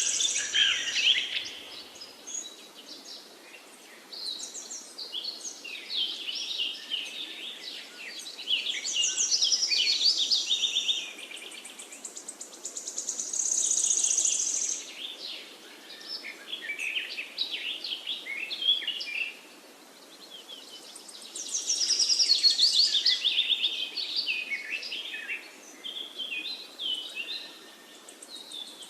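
Songbirds singing: repeated phrases of chirps and fast trills with short quieter gaps between.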